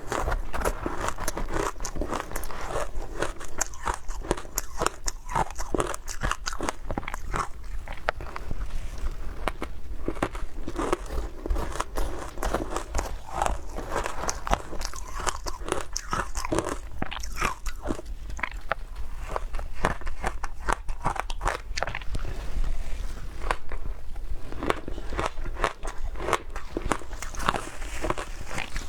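Matcha ice being bitten and chewed: continuous crunching with many sharp, irregular cracks.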